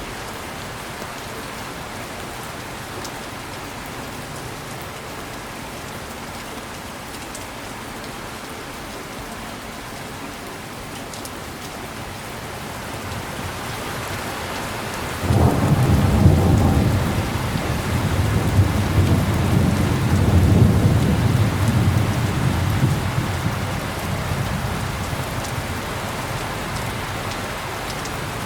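Heavy rain falling steadily. About halfway through, a thunderclap breaks in suddenly and rumbles for around ten seconds, swelling twice before it fades.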